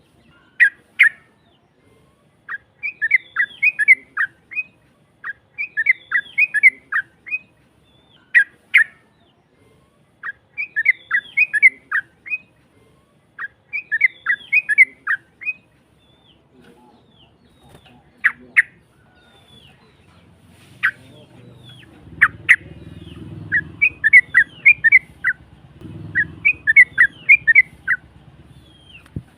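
Yellow-vented bulbul (trucuk) song in a rough, harsh voice: short chattering phrases of quick notes, repeated every two to three seconds. A faint low rumble joins in from about two-thirds of the way in.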